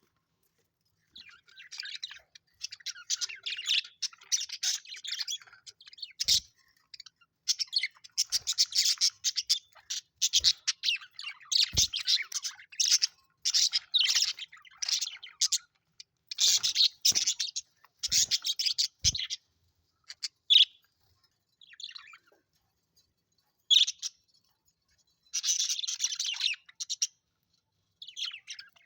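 Budgerigars chattering and warbling in long runs of quick high chirps, with a few sharp clicks mixed in. The chatter thins to a few single chirps with gaps in the later part, then picks up again in a short burst near the end.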